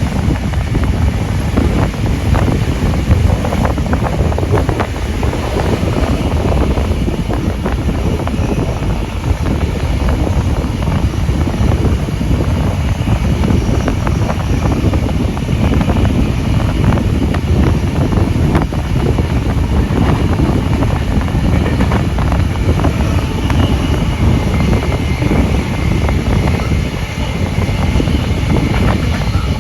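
Steady rumble and rush of a steam-hauled passenger train running along the track, with wind buffeting the microphone.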